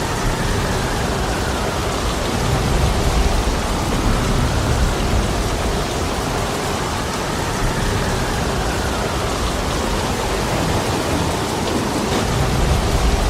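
Heavy rain falling steadily, with strong wind swelling and easing every few seconds.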